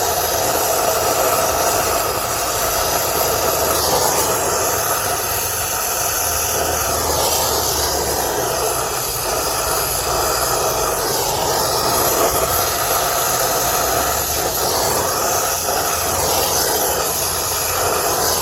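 Brazing torch burning steadily on copper refrigerant line joints: a loud, even hiss.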